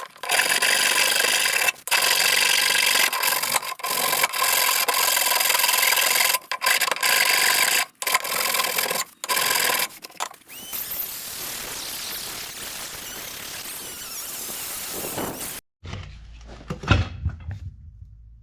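Abrasive tool working wood, sanding or sawing: loud rasping strokes in spells with short breaks, then a softer steady hiss that cuts off abruptly about three-quarters of the way through.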